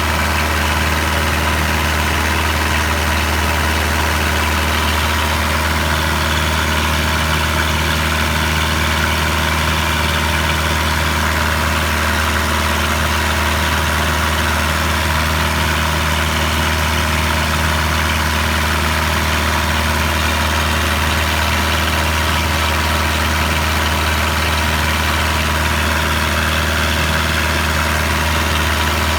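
Boat engine running steadily at a constant speed, a loud low drone with a hissing wash over it.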